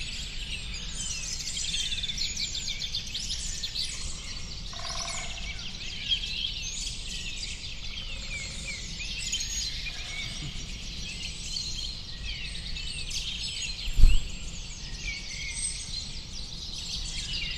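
A dense chorus of many birds chirping and twittering over a steady low rumble, with one short loud thump about fourteen seconds in.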